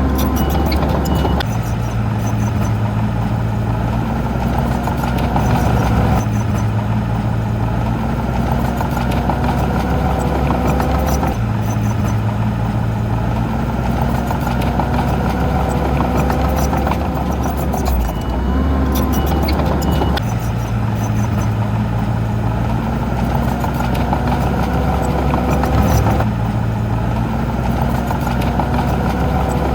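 Heavy earthmoving machine's diesel engine running, its pitch shifting to a new steady note every few seconds as the load and throttle change.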